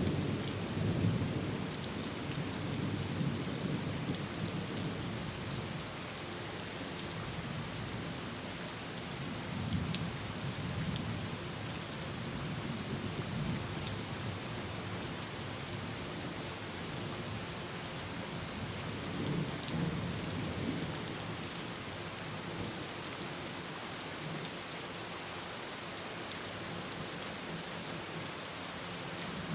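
Heavy rain drumming steadily on a tin roof, with low rolls of thunder swelling and fading several times.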